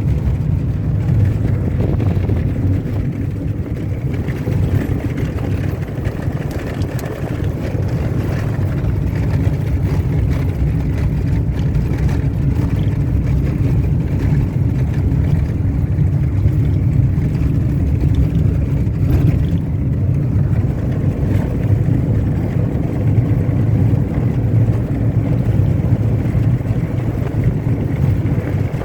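A car driving steadily along a dirt road: a low, even rumble of engine and tyres on the unpaved surface that holds the same level throughout.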